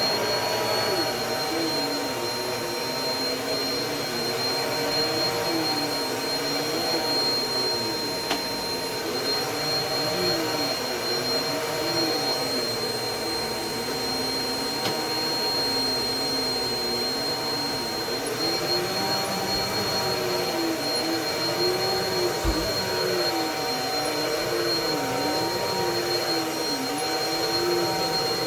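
Bissell PowerLifter Pet 1792 upright vacuum cleaner running, just switched on: its motor whine climbs to speed in the first second and then holds as a steady high whine, over a lower tone that wavers up and down every second or two.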